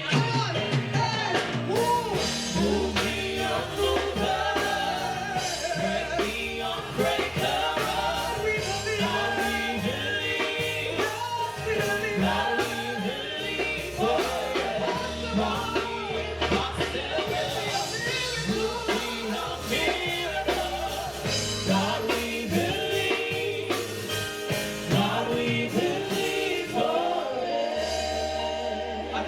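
Live gospel worship music: a praise team singing together with a band, steady bass and drums.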